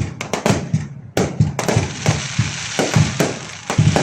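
Fireworks going off: a quick, irregular string of sharp bangs, with a dense crackling filling in from about a second and a half in.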